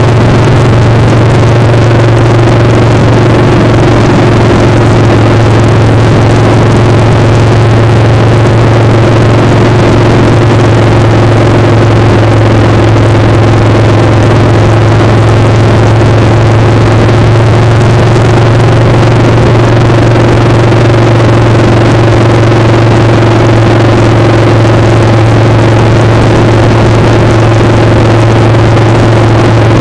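Motorcycle engine running at a steady, unchanging speed over a steady rushing wind noise.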